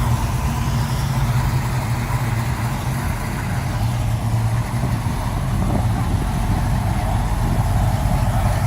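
A V8 engine in a race-built classic American car idling with a steady, deep rumble.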